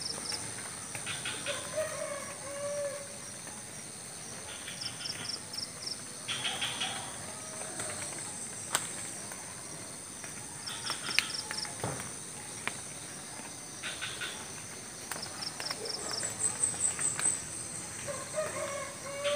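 Rural morning ambience: chickens calling and small birds chirping in short repeated bursts over a steady high-pitched drone of insects. Two sharp ticks stand out, about halfway through.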